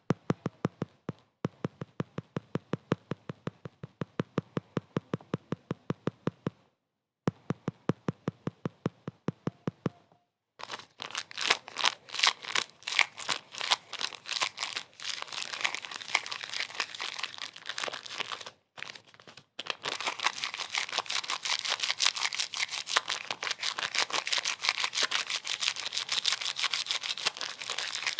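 Rapid, evenly spaced clicking at about four or five clicks a second, cutting out briefly twice. About ten seconds in it gives way to a denser, louder crinkling crackle that stops for a moment near the end and then carries on.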